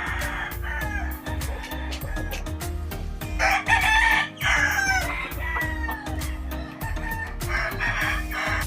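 Gamefowl roosters crowing several times, the loudest crow about three and a half seconds in, with clucking between. Background music with a steady bass beat plays under them.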